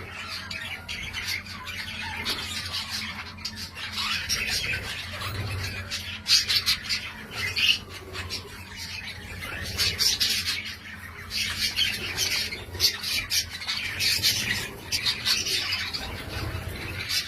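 Budgerigars chattering and warbling without a break, mixed with sharp squawks and chirps, louder in several bursts.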